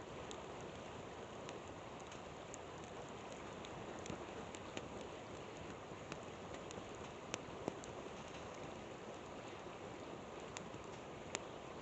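Steady rush of a flowing river, with a wood campfire crackling in scattered sharp pops, the strongest about two-thirds of the way in.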